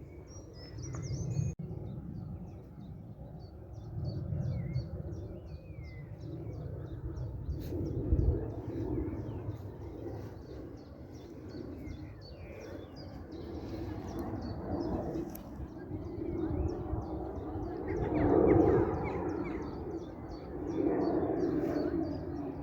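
Songbirds chirping, one bird repeating short high chirps a few times a second, with other whistled calls early on. Under them a low rumbling noise swells and fades, loudest near the end.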